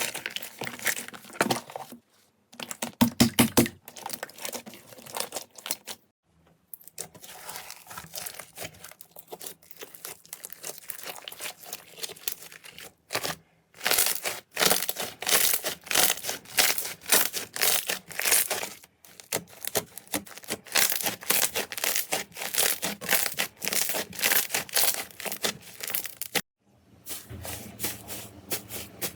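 Slime being handled and squished by hand: dense crackling and popping clicks, in several stretches separated by brief silent breaks.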